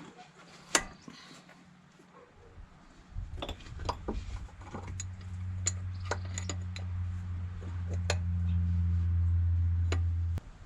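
Metal tools and fittings clinking during a brake bleed at the front wheel, with a sharp click about a second in. A low steady hum starts about three seconds in, grows louder, and cuts off suddenly near the end.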